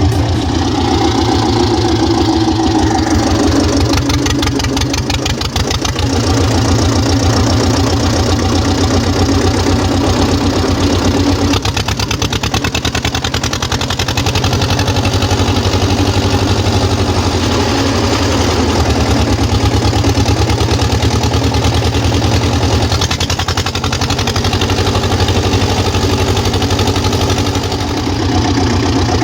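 Güldner AZK 8K tractor's diesel engine running steadily through its new exhaust pipe, its firing pulses even throughout, with small shifts in engine note around the middle and near the end.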